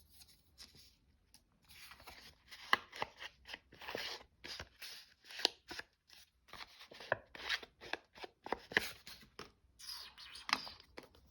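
Paper and card being handled: a run of short, irregular rustles and scrapes with a few sharp clicks.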